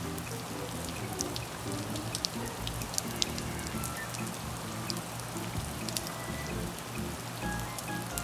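Steady rain falling on wet pavement and standing puddles, with scattered sharp ticks of single drops striking close by.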